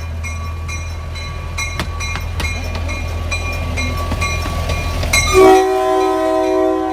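A small park-railroad train running, with a steady low rumble and a regular clicking rhythm from the wheels. About five seconds in, the locomotive sounds a loud chime of several notes held together, which is still sounding at the end.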